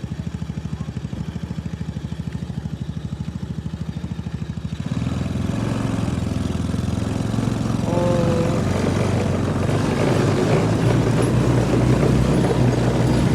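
An engine running with an even, rapid throb. About five seconds in it gets louder and rougher, as if given throttle, and it keeps building toward the end.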